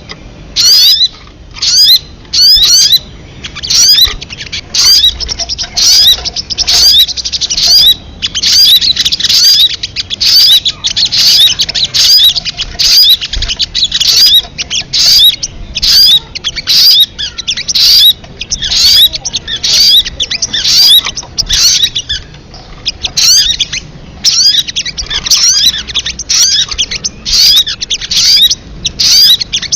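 Recorded song of a sogon bird: loud calls repeated over and over, about one and a half a second, each a quick run of falling chattering notes, with brief lulls about 3 seconds in and again near 22 seconds.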